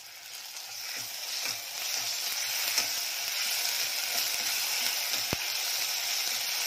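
Ginger-garlic paste and onions sizzling in hot oil in a pressure cooker while a metal spoon stirs and scrapes the pan. The sizzle builds over the first two seconds and then holds steady, with one sharp click about five seconds in.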